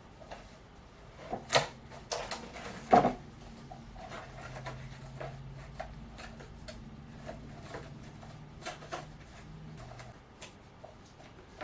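Scattered light clicks and knocks of hand work on a mold, marking and trimming with a small razor blade, the two loudest about one and a half and three seconds in. A faint low hum runs for a few seconds in the middle.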